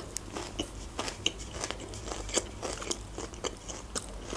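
A person chewing a mouthful of food, with soft, irregular wet mouth clicks and smacks.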